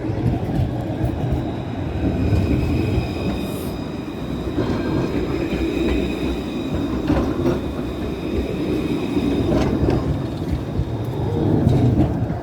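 A city tram running past, its wheels rumbling steadily on the rails under a high whine, with a couple of sharp clacks over rail joints later on.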